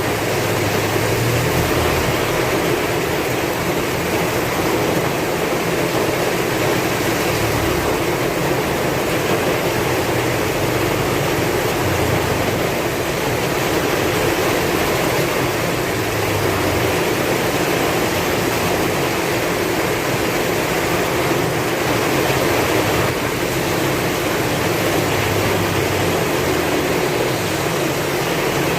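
Heavy rain falling steadily, with strong wind.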